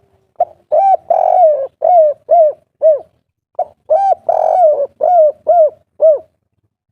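Spotted dove (tekukur) singing the 'kuk 3' coo: two phrases, each a couple of short notes, one long drawn-out coo, then three short falling coos.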